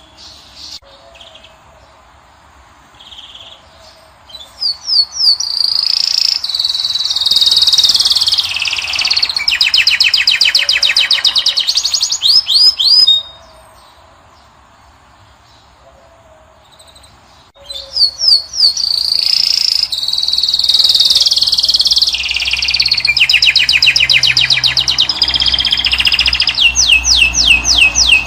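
Finch song: a bird sings two long phrases of bright twittering and fast trills of rapidly repeated notes, with a pause of about four seconds near the middle.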